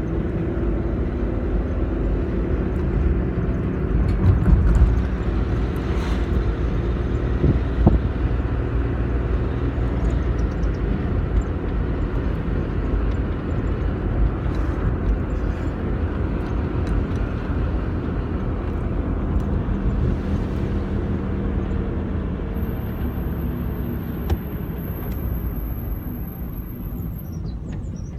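Car running steadily on the road, a constant rumble of engine and tyre noise with a few brief knocks; a faint thin high whine sounds for a few seconds near the end.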